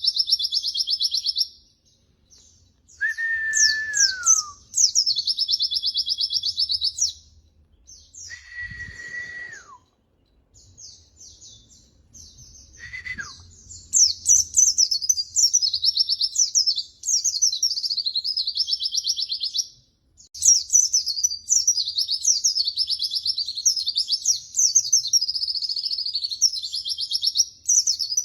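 White-eye (pleci) singing: long runs of rapid, high, twittering notes, each run lasting a few seconds with short breaks between. Three times in the first half, a single lower whistle is held and then slides downward.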